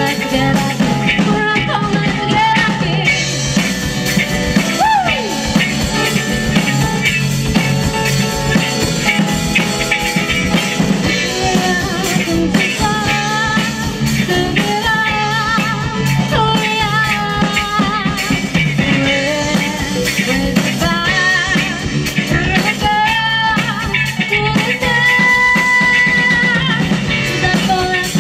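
A live rock cover band playing through a PA, with drum kit and a pitched lead line that bends up and down over a steady beat.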